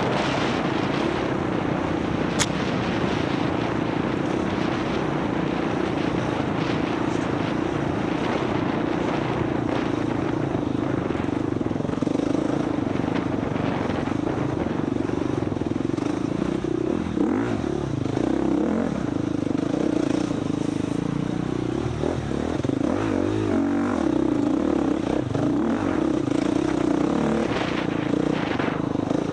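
Dirt bike engine running hard and steadily through an off-road race, its pitch wavering a little with the throttle, with one sharp click about two seconds in.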